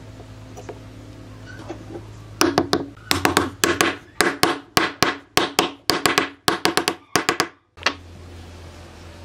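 A run of sharp knocks, many in quick pairs, about two to three a second for roughly five seconds, starting a couple of seconds in, over a steady low hum.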